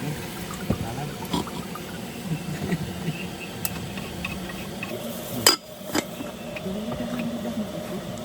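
Water or liquid sounds, with scattered small clicks and knocks and one sharp knock about halfway through.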